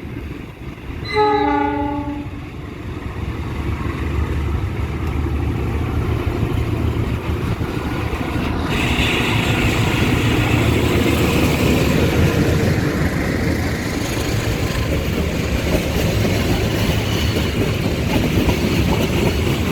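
An Indonesian Railways commuter train sounds its horn in one short blast about a second in. Then comes the rumble and wheel noise of the train rolling through the station, growing louder and staying loud.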